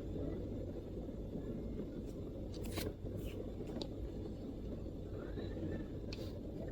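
Steady low background rumble with a few scattered sharp clicks, sparse MacBook keystrokes, three close together in the middle and one more near the end.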